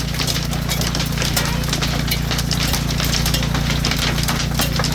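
A hailstorm of pea- to golf-ball-sized hailstones pelting down: a dense, irregular clatter of stones striking hard surfaces, with a steady low hum underneath.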